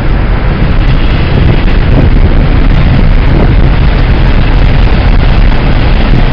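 Steady, loud rush of road and wind noise from a car travelling at highway speed.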